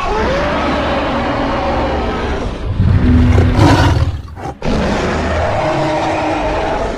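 Creature roar sound effect layered from dinosaur and lion roars: a long roar that swells louder in its second half, a brief break, then a second long roar.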